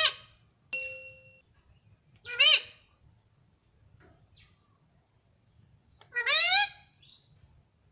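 Pet ringneck parrot calling three times: short, arched, screechy calls at the start and about two and a half seconds in, and a longer rising call near the end. A brief steady whistle-like tone sounds about a second in.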